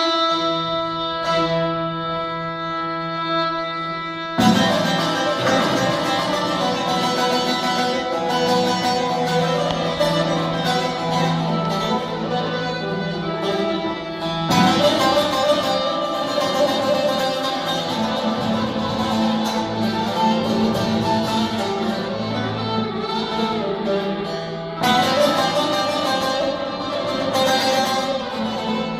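Instrumental introduction of a Turkish folk song, played on plucked and bowed strings. It opens on steady held notes, and the full band comes in after about four seconds.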